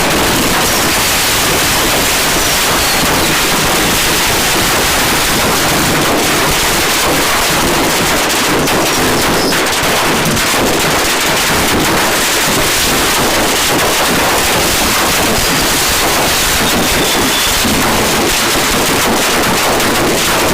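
Fireworks going off in a loud, unbroken barrage: dense crackling and popping of firecrackers, with a few faint whistles over it.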